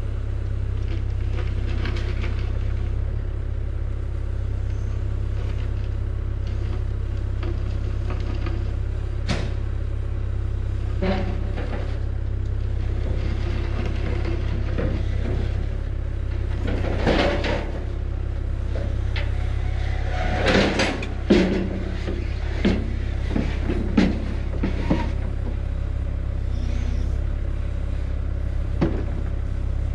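A vehicle engine running steadily with a constant low drone, broken by a few sharp knocks and rattles about two-thirds of the way through.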